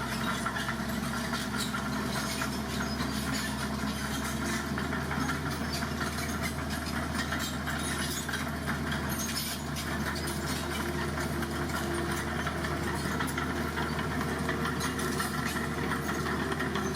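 Dump truck's heavy engine running steadily at a constant level, with no revving.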